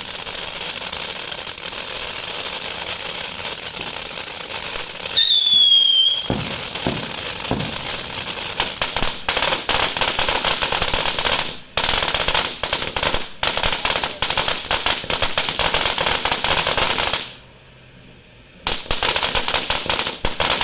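200-gram 'Call Me' consumer fireworks cake going off: continuous crackling and rapid popping, with one whistle falling in pitch about five seconds in. The crackling breaks off briefly near the end, then starts again.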